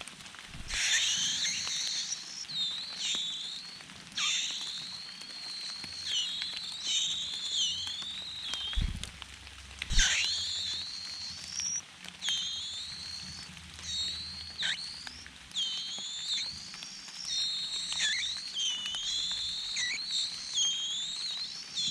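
Small birds chirping over and over: quick, high, sweeping notes, some dropping sharply in pitch, with a few short low thumps mixed in.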